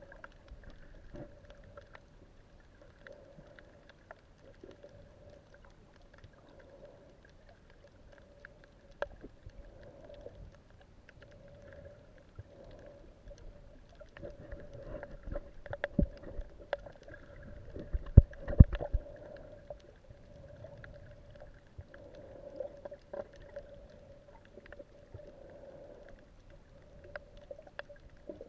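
Underwater ambience recorded with the camera below the surface: a steady low hum with scattered crackling clicks. Between about sixteen and nineteen seconds in come several loud knocks, the loudest of them near the nineteenth second.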